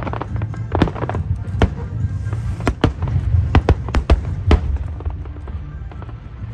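Aerial fireworks bursting: an irregular run of sharp bangs and crackles, several a second, over music with a steady low bass.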